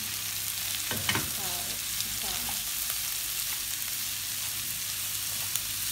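Diced hotdog, onion and garlic sizzling in hot oil in a wok while being stirred and scraped with a plastic slotted spatula. The spatula knocks against the pan about a second in.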